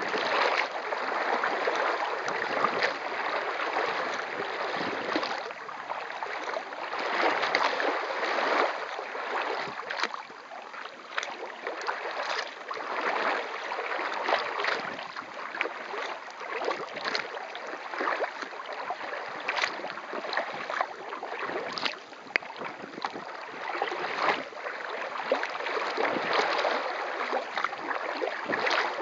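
Water swishing and splashing around a kayak under way, with the uneven surges and small splashes of paddle strokes and drips.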